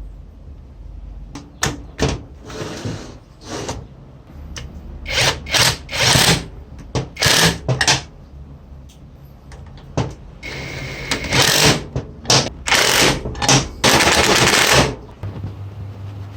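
A series of short, loud mechanical bursts, each up to about a second long, coming irregularly with a low hum under several of them.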